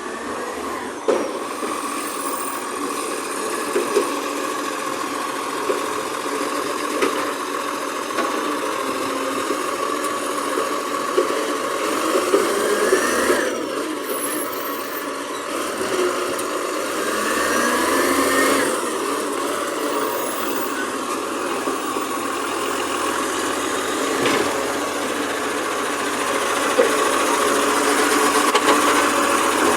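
Garbage truck engine running steadily, rising in pitch twice as it revs up, with a few short knocks.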